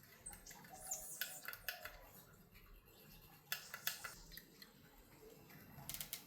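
Faint small clicks and taps in short clusters, about a second in, again around three and a half seconds in, and near the end: a light switch being handled and clicked.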